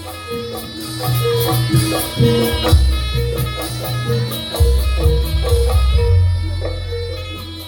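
Live Javanese jaranan music: tuned percussion repeating a short melody over long, deep gong-like bass notes and drumming, with no singing.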